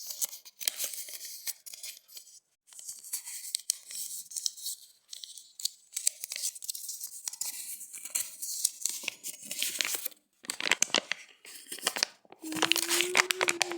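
Dry, scratchy creaking made up of dense clicks, coming in short irregular bursts with brief gaps between them. About a second before the end, a steady held tone joins in.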